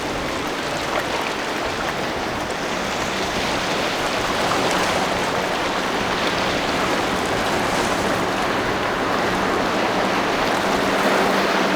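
Steady rushing and hissing of waves and churning water in an ocean inlet. A boat engine's low, steady hum comes in near the end.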